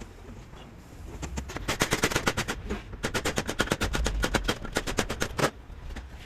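Ratchet wrench clicking rapidly in two runs of about ten clicks a second, the second run longer, with a short pause between them.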